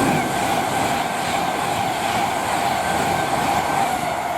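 Avanti West Coast Class 390 Pendolino electric train running through the station: steady rushing rail noise with a held whining tone.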